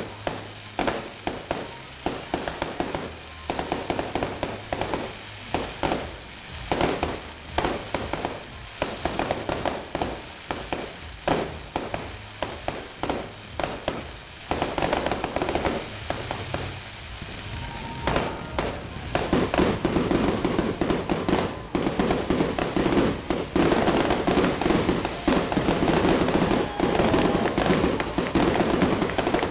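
Fireworks display, with bangs going off one after another. About two-thirds of the way in they become a louder, near-continuous barrage of rapid bangs and crackling.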